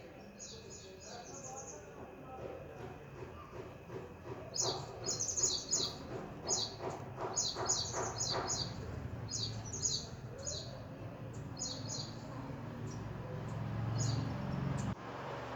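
Birds chirping in quick clusters of short, high notes, busiest around the middle. A low rumble underneath builds up and cuts off suddenly near the end.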